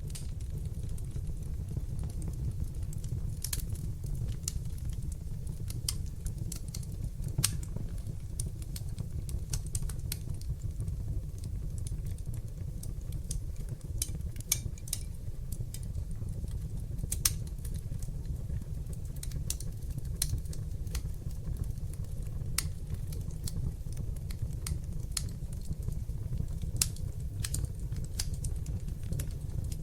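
Fire in a fireplace burning with irregular sharp crackles and pops over a steady low rumble of the flames.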